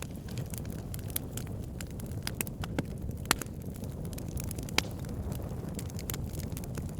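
Wood fire burning with burning logs crackling: a steady low rumble of flames under irregular snaps and pops, two sharper pops about three and five seconds in.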